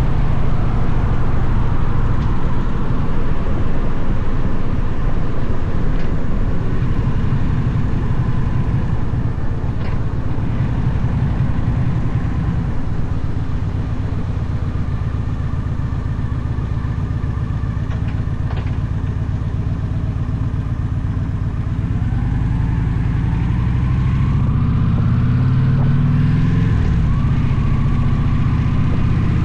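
Victory motorcycle's V-twin engine running on the road at a steady speed; in the last few seconds the engine note climbs twice as the bike accelerates.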